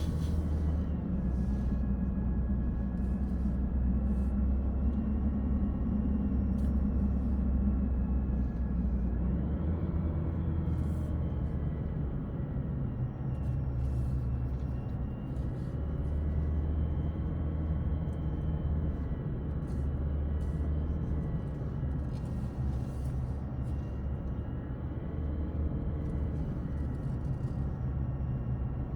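Car heard from inside the cabin while driving down a winding mountain road: a steady low engine and tyre rumble, with a few faint ticks now and then. The low rumble shifts slightly about ten seconds in.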